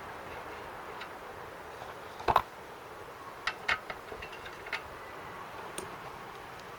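Metal parts and tools handled during a small-engine teardown: one loud clank about two seconds in, then a few lighter clicks and taps, over a steady hiss.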